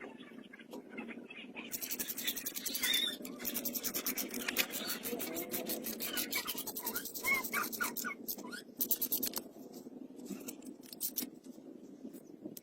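Fast, even scraping strokes, several a second, starting about two seconds in and stopping after about nine seconds, followed by a few scattered scratches.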